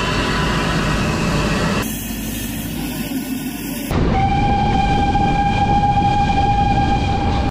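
Nilgiri Mountain Railway train running, the sound changing abruptly twice, then a train horn sounding one long steady note for the last three and a half seconds.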